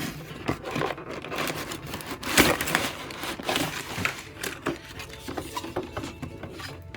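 Packaging crinkling and rustling as a toy pack is opened by hand, with a louder burst of crinkling about two and a half seconds in.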